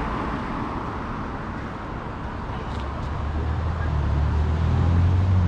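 Outdoor background noise with a low rumble that builds and grows louder from about halfway through.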